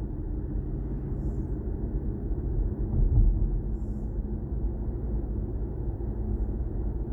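Steady low road and tyre rumble inside the cabin of a moving BMW i4 M50 electric car, swelling briefly about three seconds in.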